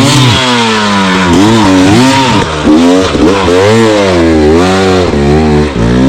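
Enduro motorcycle engine revved hard and let off again and again, its pitch rising and falling every second or so.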